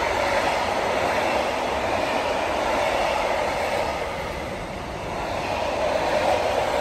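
Container freight train's loaded flat wagons rolling past on the rails: a steady noise of wheels on track that dips briefly about five seconds in and comes back near the end.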